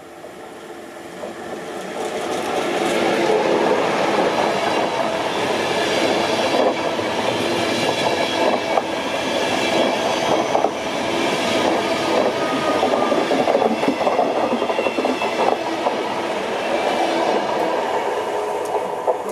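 A Nightjet passenger train hauled by a Bombardier Traxx class 185 electric locomotive runs through the station without stopping. The sound swells over the first few seconds as it arrives, then holds as a loud, steady rush of wheels on rail with clickety-clack and a high whine above it, easing slightly near the end.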